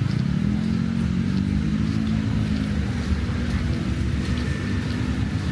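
A motor vehicle's engine passing close in street traffic: a low engine note that comes in at the start and fades after about four seconds, over a continuous traffic rumble.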